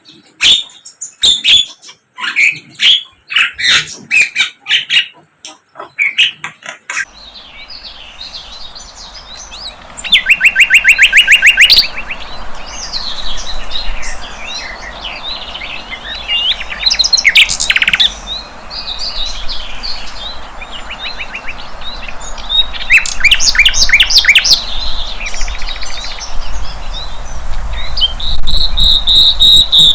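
Sikatan londo (a flycatcher) singing: varied high chirping phrases broken by three loud, fast trills of rapidly repeated notes. The opening seconds hold a quick run of sharp clicking notes before the sound changes abruptly.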